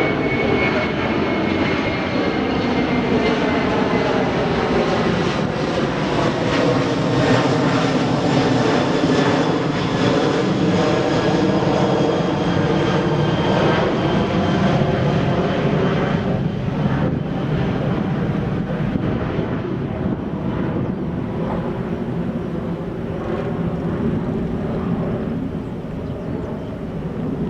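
Jet airliner's engines passing close by, a loud steady noise with tones that slide slowly down in pitch as it goes by, easing off a little in the second half.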